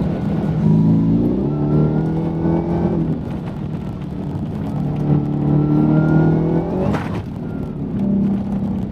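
Ford Raptor's V8 engine accelerating on a dirt road, its pitch climbing twice with a thin whine rising above it. A short noisy burst comes about seven seconds in.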